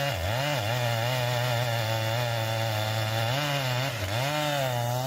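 Chainsaw engine running at high revs. Its note dips briefly and recovers a few times: at the start, and twice again between about three and four seconds in.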